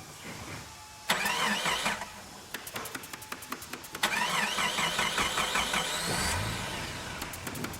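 Car engine start sound effect: the starter cranks briefly, a run of irregular clicks follows, it cranks again for about two seconds, and then the engine catches and settles into a steady low idle for the last second and a half.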